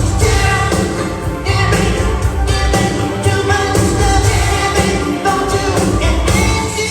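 A live band playing a pop song with a singer, drums and bass, played straight through at full volume.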